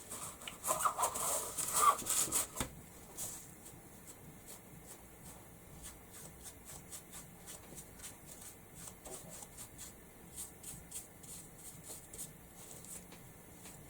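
Paintbrush dabbing and working paint onto a wooden board: a run of light, irregular taps, with a louder burst of scrubbing and handling noise about one to two seconds in.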